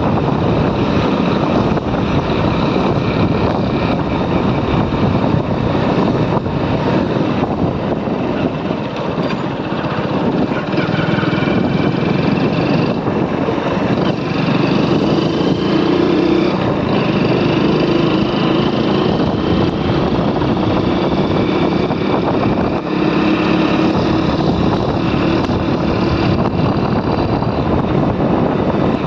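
Motorcycle being ridden along a road: a steady rush of wind over the microphone with the engine running underneath.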